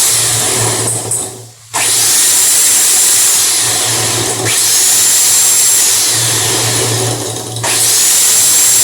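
Electric hand beater running at low speed, its beaters whipping a coffee, sugar and water mixture in a bowl. The motor whirs with a steady hum and a high whine. It drops out briefly about a second and a half in and again near the end, each time restarting with a rising whine.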